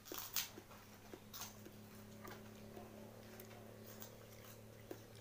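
Close-up mouth sounds of someone eating red dragon fruit: wet smacks and chewing, sharpest about half a second in, over a low steady hum.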